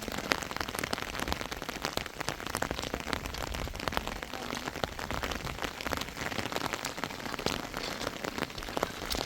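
Steady rain falling, with a constant stream of sharp, close drop hits on a surface.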